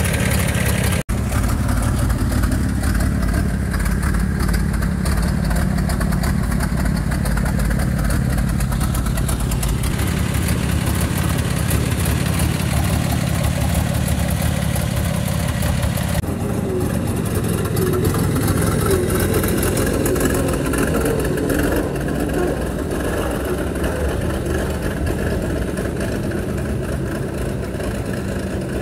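The inline six-cylinder engine of a 1927 Buick Model 48 running steadily, first idling with the hood open, then while the car is driven, growing a little fainter near the end.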